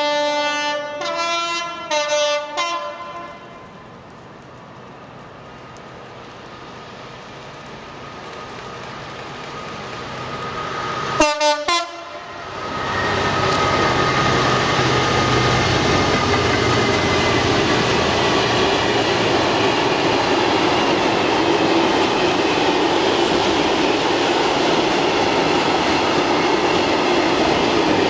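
Two-tone horn of a Class 66 diesel-electric freight locomotive sounding several alternating high and low blasts, then a second short blast about eleven seconds in as the train draws near and grows louder. From about thirteen seconds the locomotive's two-stroke V12 diesel engine and its long rake of covered freight wagons pass close by with a loud, steady noise of running wheels on the rails.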